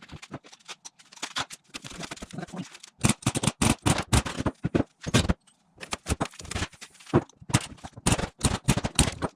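A rapid, irregular run of knocks, clatters and scrapes from carpentry work on a wooden camper frame, getting louder and denser after about three seconds.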